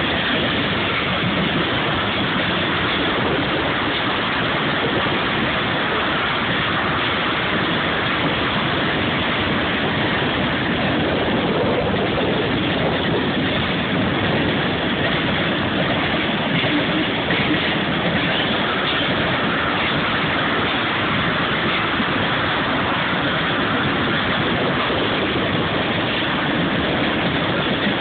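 Iowa Interstate freight train rolling past close by: a loud, steady rumble and rattle of wheels and cars on the rails, without a break.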